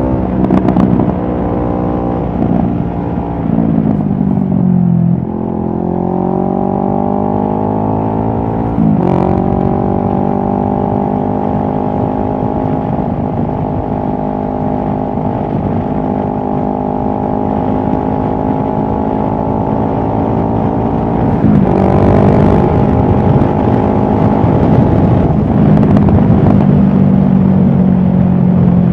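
2023 CFMoto 650NK's parallel-twin engine under way: the revs drop, then climb, with a brief break about nine seconds in, as on a gear change. It then holds a steady pitch for about twelve seconds, changes again about twenty-one seconds in, and runs on steadily, sagging a little near the end.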